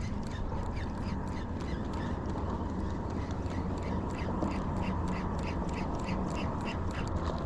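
Fishing reel being cranked steadily during a lure retrieve, an even ticking about four times a second, over a low rumble of wind and water.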